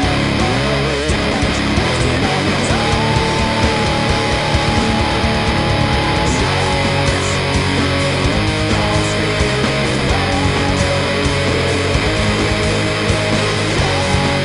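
Electric guitar played through a Kokko KH8 high-gain distortion pedal, playing heavily distorted metal riffs and sustained lead notes with vibrato.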